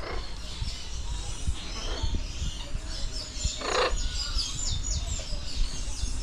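Birds chirping and whistling in quick, short high notes, with one harsh call a little past the middle; a low rumble runs underneath.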